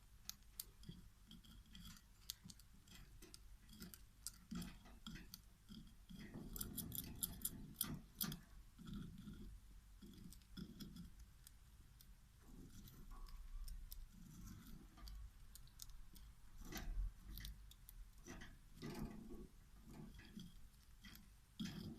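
Faint, irregular light clicks, taps and scratching, as of small plastic things being handled, with busier clusters of clicks about a third of the way in and again near the end.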